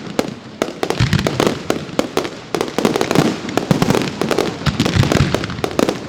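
Professional fireworks display firing a dense barrage: rapid sharp bangs and crackling reports, several a second, with deeper booms about a second in and again near five seconds.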